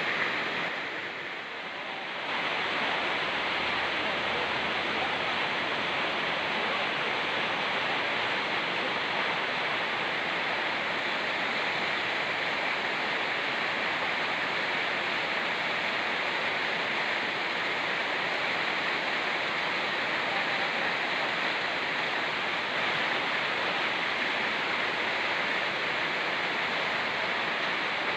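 Rain falling together with a fast-flowing mountain stream: a steady, even hiss of rushing water that dips briefly in level about a second in.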